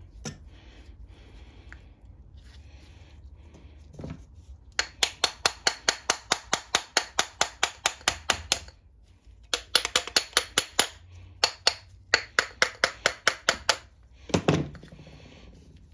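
A hand ratchet clicking in fast runs of about five clicks a second, three runs in all, while the main jet is unscrewed from a Tecumseh mower carburetor. A single heavier knock comes near the end.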